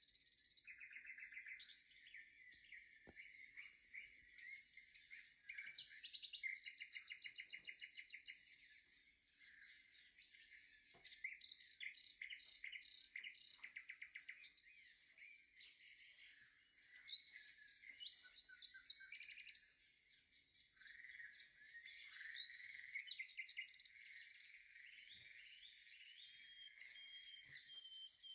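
Birds chirping continuously, with fast trilled runs of short notes and repeated calls.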